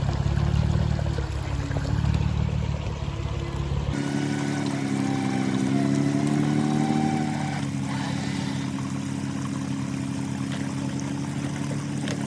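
Truck engines running and revving, the pitch rising and falling, with an abrupt change in the sound about four seconds in.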